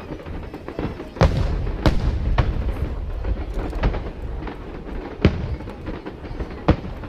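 Aerial firework shells bursting overhead: about six sharp booms at uneven intervals, each trailing off in a low rumble.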